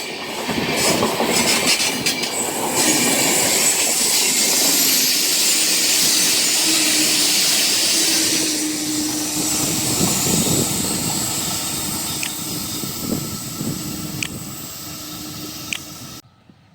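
Diesel-hauled passenger train rolling past, its steel wheels running over the rails. The sound slowly fades and then cuts off abruptly near the end.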